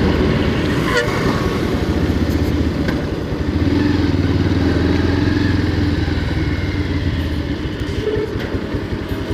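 Motorcycle engine running steadily, a fast even stream of exhaust pulses with a low steady hum.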